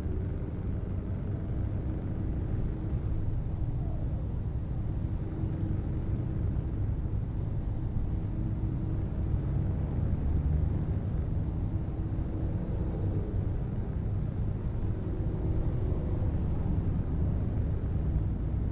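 Scania R730 truck's V8 diesel engine running while driving, a steady low rumble.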